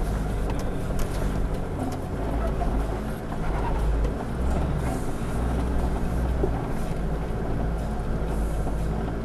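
Four-wheel-drive's engine running at low revs, heard from inside the cabin while it crawls a rocky track, with a few scattered knocks.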